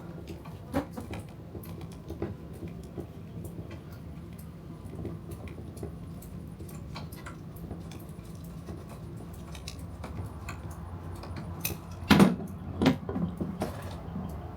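Metal tools and fittings clinking as they are handled, with a louder clatter about twelve seconds in, over a steady low hum.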